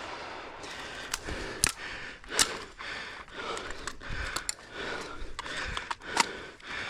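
A few scattered sharp clicks and knocks, the loudest about two and a half seconds in, with no close gunfire.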